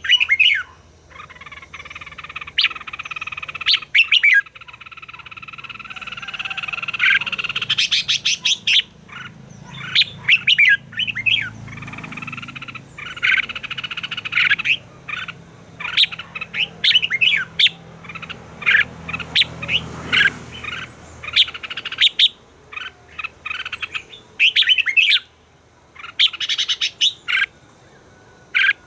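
Red-whiskered bulbuls singing: a dense run of short, quick whistled notes and chirps, with a steady high drone underneath for the first half.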